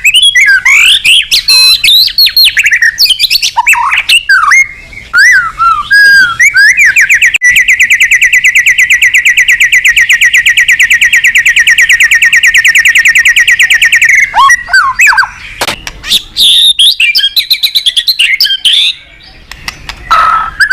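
White-rumped shama (murai batu) singing loudly in full song, calling out a rival: varied clear whistled phrases, with a fast even trill held for about six seconds in the middle before the varied phrases resume.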